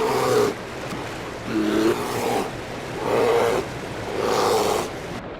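Male brown bears roaring as they fight: four loud roars, each under a second, over steady rushing water.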